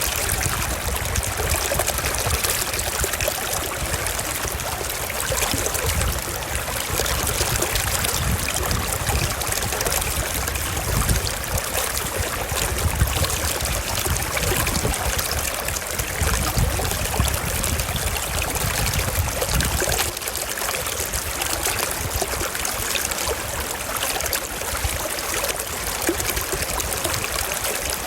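A forest stream flowing over rocks: a steady, dense rush and trickle of water, with a low rumble that swells and eases.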